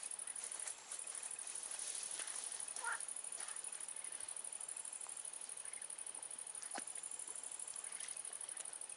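Insects trilling, a faint, steady, high-pitched pulsing chorus that drops out briefly about a second in, with a few faint clicks.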